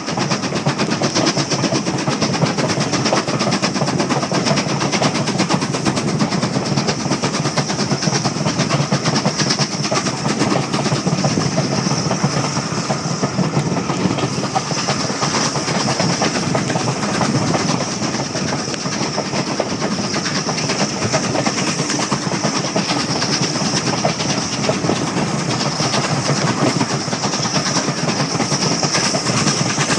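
Steam-hauled passenger train in motion, heard from a carriage window: a steady rushing noise with the wheels clattering over the rails.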